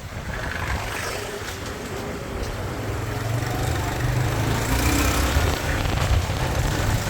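Riding on a motorbike: engine and road traffic noise under heavy wind rumble on the microphone, getting a little louder partway through.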